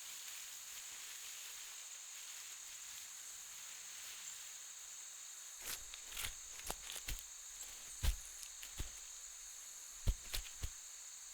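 Steady high drone of rainforest insects. From about halfway through come irregular cracks and thuds of branches and undergrowth snapping, the sound of pygmy elephants moving through the forest.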